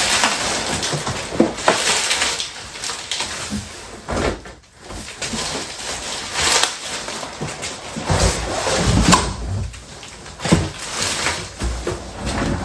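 Cardboard box and packing material being handled as a 3D printer is unpacked: irregular rustling, scraping and crinkling, with heavier knocks and thumps in the second half.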